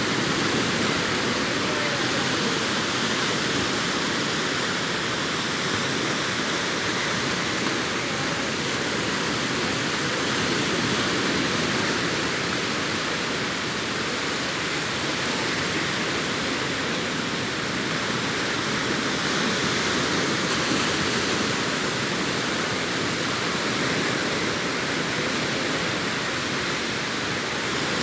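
Sea surf washing onto the shore in a continuous, even roar that swells and eases only slightly.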